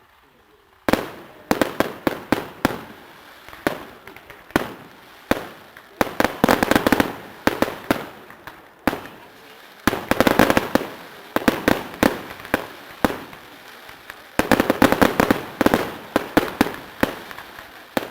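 Fireworks display going off: after about a second of quiet, a string of sharp bangs begins, some single and some in rapid volleys of many bangs.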